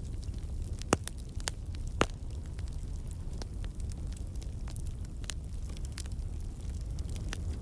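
Wood campfire burning with a steady low rumble and scattered sharp crackles and pops from the logs, the loudest about one and two seconds in.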